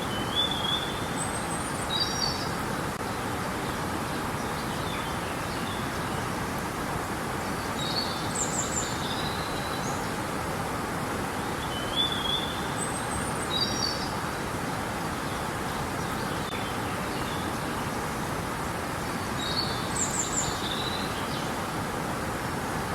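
Steady rushing of flowing river water, with small birds chirping in short high phrases at intervals of a few seconds.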